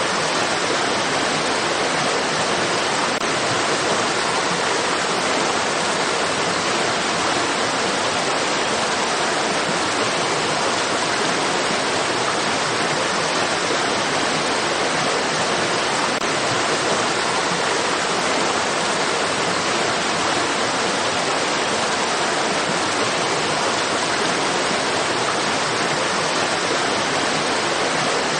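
Water rushing in a stream, a steady, even hiss with no changes.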